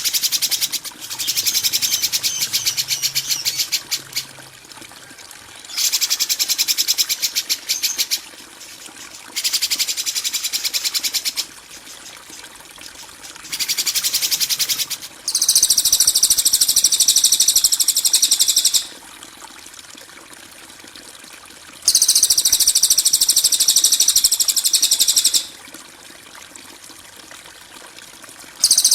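Harsh, rasping 'kasaran' songbird calls of the kind played as a tutor recording for cage birds, repeated in bouts of about two to three and a half seconds with short pauses. The first bouts are rapid ticking rattles; from about midway they become longer, high buzzy rasps.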